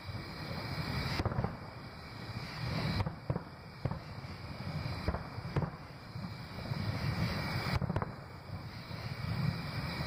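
Aerial firework shells bursting in a long irregular string of booms, over a steady low rumble.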